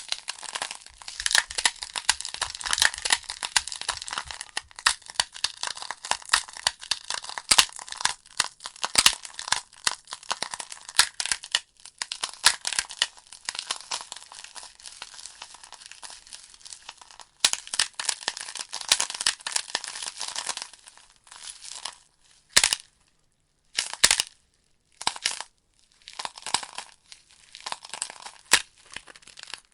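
Burning logs crackling in a fireplace: a dense, irregular run of pops and snaps. About three-quarters of the way through the crackle thins to a few sharp cracks with short quiet gaps, then picks up again.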